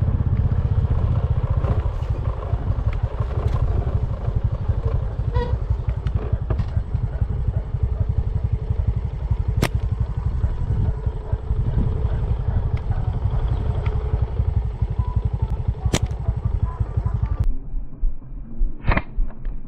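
Motorcycle engine running steadily with a low, fast-pulsing rumble, broken by two sharp clicks about ten and sixteen seconds in. Near the end the engine sound cuts off abruptly and gives way to a low pulsing beat.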